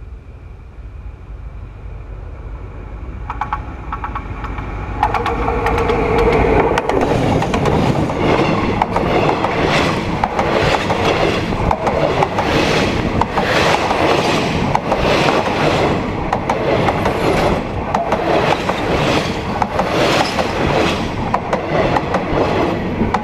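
Train approaching and passing at close range: a low rumble grows over the first few seconds, turns suddenly loud about five seconds in, and then runs on with wheels clacking over the rails in a repeating rhythm.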